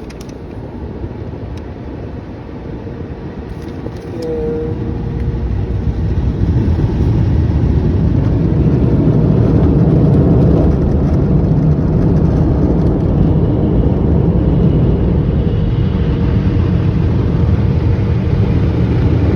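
Automatic car wash machinery running around the vehicle, heard from inside the truck's cabin: a dense rushing noise that grows louder about four seconds in and then stays steady and loud.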